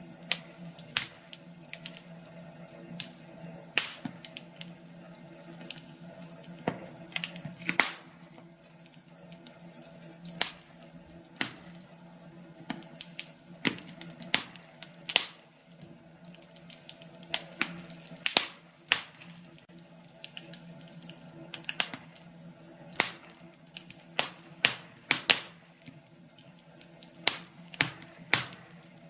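Wood fire crackling in a fireplace: irregular sharp snaps and pops from the burning logs, a few every second or two, over a steady low hiss of the flames.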